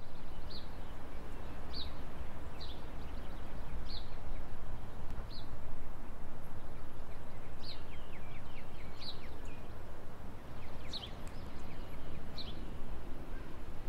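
Outdoor field ambience: a small bird repeats short, high chirps, about nine of them spaced a second or so apart, over a steady low background rumble.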